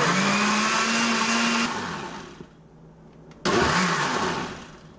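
Countertop blender mixing cottage cheese into pancake batter in short pulses. The first run lasts about two seconds, its motor pitch rising a little as it spins up before it winds down. After a pause a second, shorter burst starts about three and a half seconds in.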